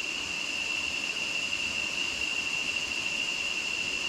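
Jungle insects droning, one steady high-pitched tone that holds without a break.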